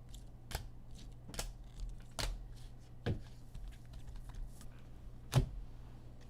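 Trading cards being handled on a table: about five sharp clicks and taps at uneven gaps, the loudest near the end, over a low steady hum.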